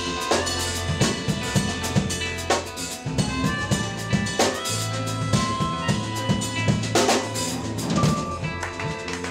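Live jazz band playing an instrumental passage: busy drum kit with snare, rimshots and bass drum over sustained electric bass notes and pitched guitar and keyboard tones.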